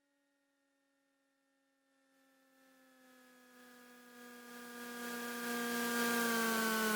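Cessna 337 Skymaster's engine drone heard in the cockpit on final approach: a steady humming tone that slowly falls in pitch. It fades up from near silence about two seconds in and grows loud, with a rising hiss underneath.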